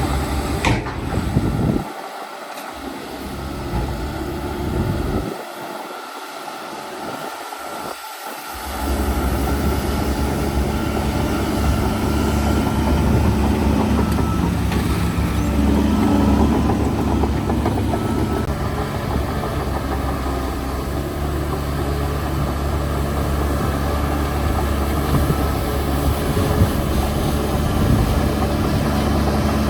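Diesel engine of heavy construction machinery running. For the first several seconds its low rumble is thinner and quieter, with brief gaps. From about eight seconds in it comes back as a steady, louder rumble.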